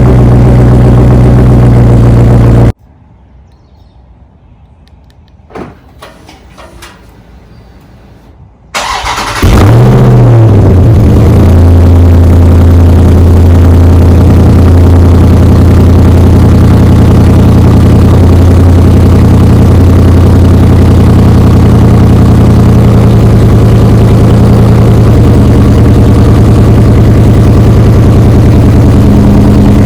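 Dodge Charger Scat Pack's V8 on its stock exhaust: a running engine cuts off suddenly, then after several seconds of quiet with a faint click the starter cranks briefly and the engine catches with a quick rev flare. It settles into a loud, steady cold-start fast idle.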